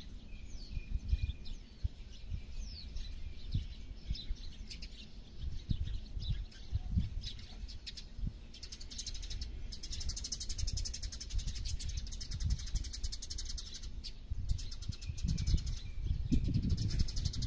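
Small birds chirping outdoors, with short falling high notes repeated through the first half. About halfway in comes a fast, high-pitched trill that pulses rapidly for several seconds and stops shortly before the end. Throughout there is an uneven low rumble underneath.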